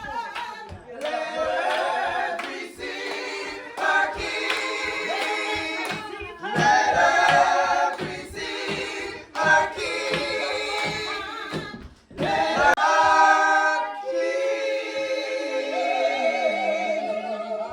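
Several voices singing a cappella in a choir-like blend, with long held notes, some with a wavering vibrato, and short breaths between phrases.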